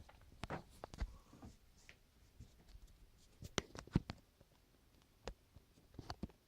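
Irregular light clicks, taps and brief scrapes of small objects being handled, the sharpest pair about three and a half and four seconds in.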